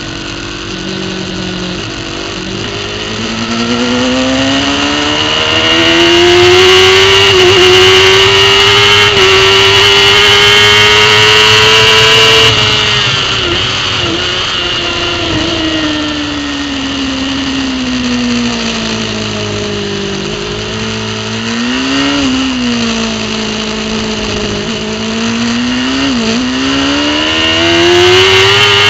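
A superbike racing motorcycle's engine at full throttle, heard from on board. The pitch climbs steadily with brief dips at the upshifts, then falls away as the bike slows. Later come two short sharp blips, typical of downshifts, before it climbs again near the end.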